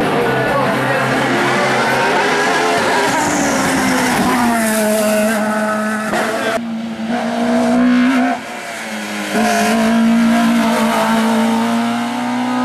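Racing car engine held at high revs, its note broken briefly a little past halfway and dropping in level for about a second soon after, as the driver shifts or lifts before pulling hard again.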